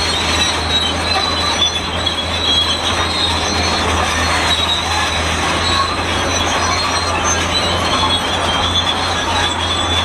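Shantui SD32 crawler bulldozer making a loud, shrill metallic squeal of wavering high tones over the steady low drone of its diesel engine.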